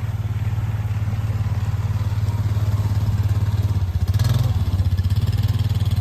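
A small vehicle engine running steadily with a fast low pulse, briefly louder about four seconds in.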